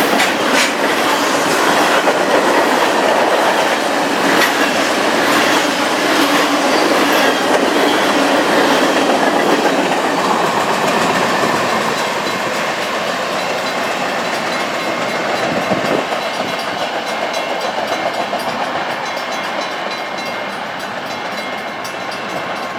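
Train rolling past, its wheels clattering over the rail joints, growing gradually quieter over the second half.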